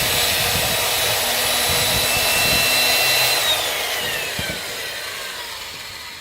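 Electric chainsaw running at full speed with a steady high whine; about three seconds in the trigger is released and the motor spins down, its whine falling in pitch and fading.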